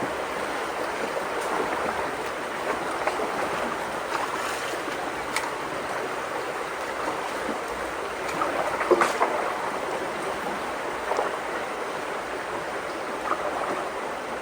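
Steady rush of rain-swollen creek water flowing through a culvert, with a few brief splashes or knocks, the loudest about nine seconds in.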